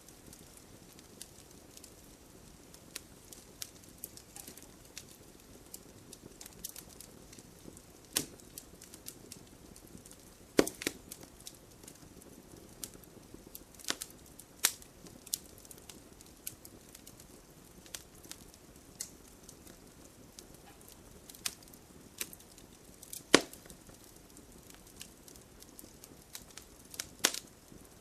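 Campfire of burning wood crackling over a soft, steady hiss, with frequent small snaps and a few sharp, louder pops.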